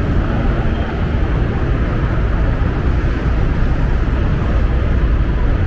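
Steady wind rush on a riding microphone over the hum of a small motor scooter's engine, cruising at a constant speed.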